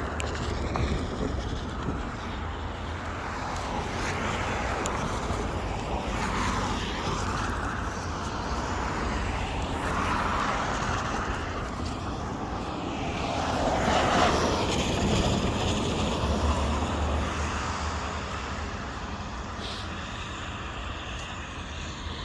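Steady vehicle noise with a low rumble, swelling to its loudest a little past the middle and then easing off.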